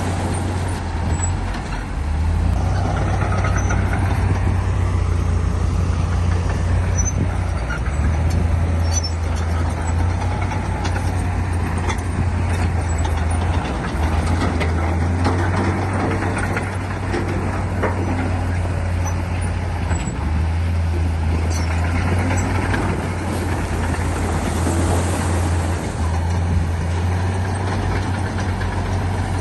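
Heavy diesel engine of earthmoving machinery running under load, a deep steady drone that steps up and down every few seconds, with scattered clanks and rattles.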